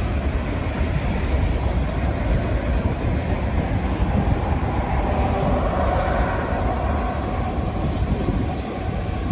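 Union Pacific freight train's cars rolling past at close range, a steady heavy rumble and rattle of wheels on rail. A higher hiss swells and fades from about five to eight seconds in.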